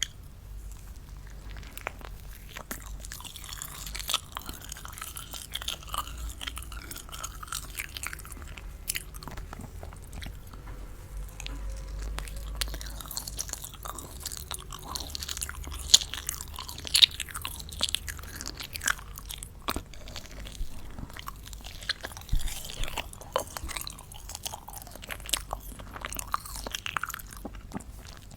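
Close-miked chewing and biting of something crunchy, with a dense run of irregular crisp cracks.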